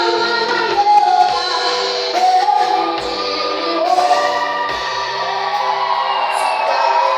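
A song: voices singing a melody over instrumental accompaniment.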